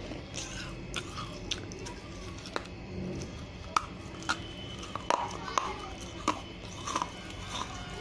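Biting and chewing a broken piece of unglazed terracotta clay pot, with sharp, irregular crunching cracks. The crunches are loudest a little under four seconds in and come thickest in the second half.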